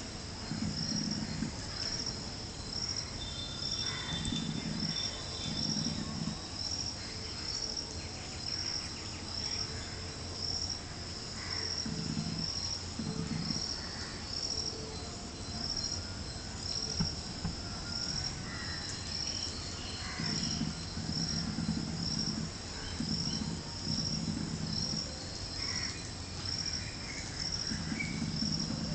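Insect chirping steadily, one high chirp about every second without a break. Low rumbling swells come and go, with faint scattered clicks and short calls.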